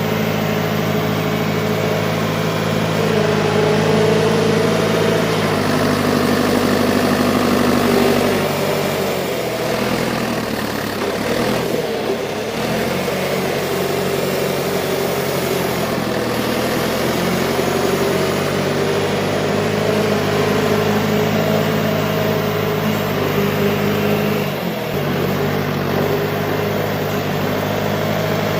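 Diesel engine of a John Deere 410 loader backhoe running steadily. Its speed shifts a few times, with a dip and recovery about ten seconds in and a brief dip near the end.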